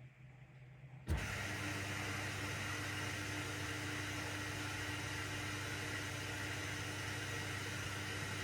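AEG front-loading washing machine's drain pump switching on with a click about a second in, then running steadily with a low hum and an even noise.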